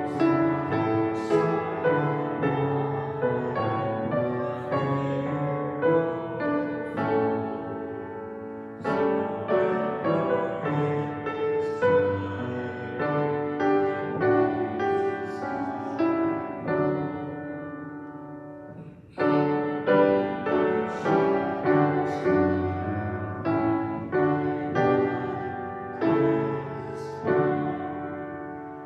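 Piano playing a slow hymn tune phrase by phrase, notes struck and left to ring, with short breaks between phrases.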